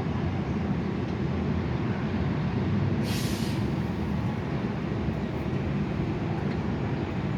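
Steady low rumble, with a brief hiss about three seconds in.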